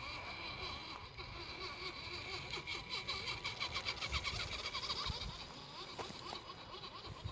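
Off-road farm truck's engine running while it crawls over rock, a low steady rumble.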